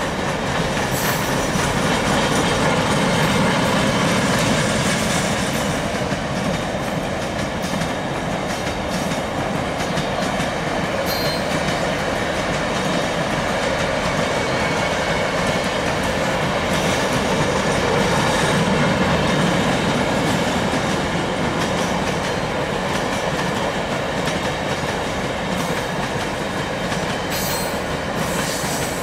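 Covered hopper wagons of a long freight train rolling past on broad-gauge track: a steady rolling noise of steel wheels on the rails, with a few brief sharp sounds about a third of the way in and near the end.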